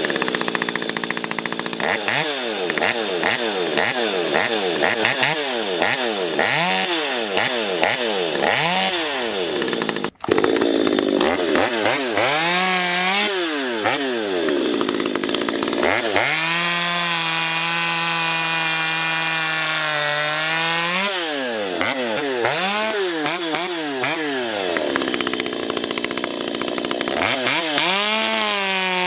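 Ported Stihl MS250 two-stroke chainsaw blipped over and over from idle to high revs, then held at high revs for several seconds at a time, with more blips between. The sound drops out for a moment about ten seconds in.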